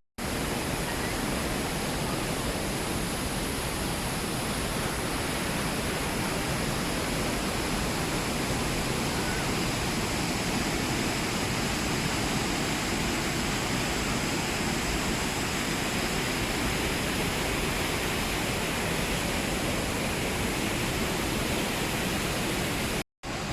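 Waterfall rushing: a steady, even roar of falling water that cuts out for a moment near the end.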